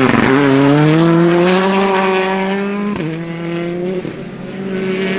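Rally car engine revving hard under acceleration, its pitch climbing, with a sharp break about three seconds in before it pulls again.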